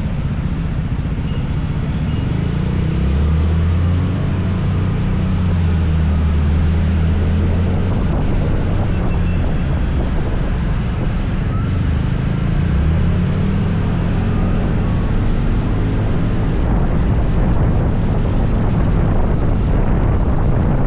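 Motor scooter riding along, its engine droning under steady wind noise on the microphone; a stronger low engine drone comes in about three seconds in and shifts in pitch around the middle.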